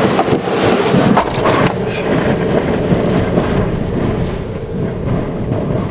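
Typhoon wind buffeting the microphone over the rush of surf, with some brief sharp clatter in the first two seconds before settling into a steadier rush.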